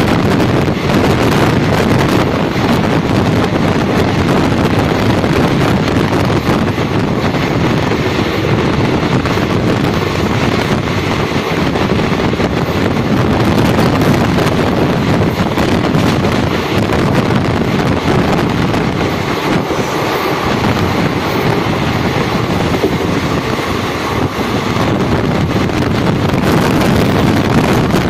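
Steady rush of wind buffeting the microphone over the low rumble of an express passenger train running at speed on its rails, heard from an open coach doorway.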